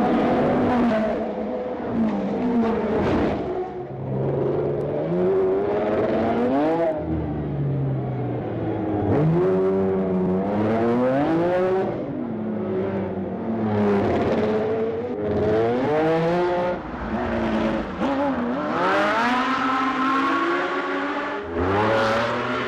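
1970s Formula 1 racing car engines at high revs, the pitch climbing and then dropping again and again as the cars accelerate and change gear.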